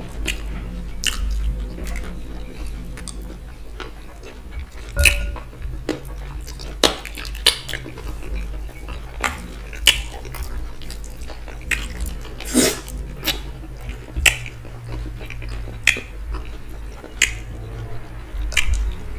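Eating sounds of fufu with ogbono and okra soup, eaten by hand: chewing with irregular, sharp, wet smacks, about one a second.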